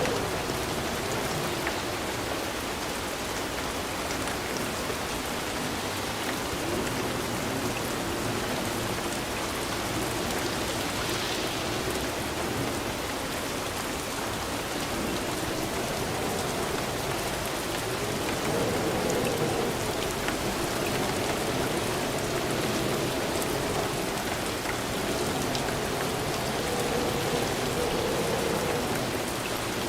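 Steady rain falling, an even hiss with scattered drop ticks and a low wavering rush of water.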